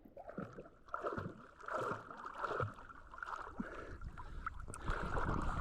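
Lake water sloshing and splashing close to the microphone as a person moves in the water, with soft irregular swishes.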